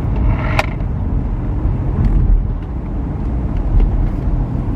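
Car in motion heard from inside the cabin: a steady low road and engine rumble, with a single sharp click about half a second in.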